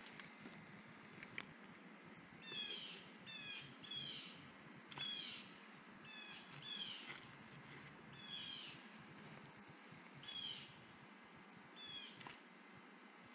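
A bird calling over and over, each call a quick run of falling high notes, roughly once a second, with a few sharp clicks in between.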